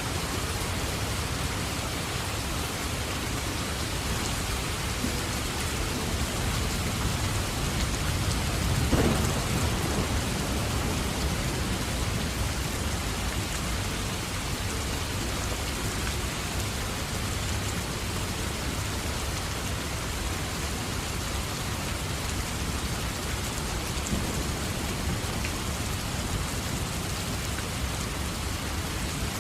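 Steady heavy rain, with a single rumble of thunder about nine seconds in that fades over a couple of seconds.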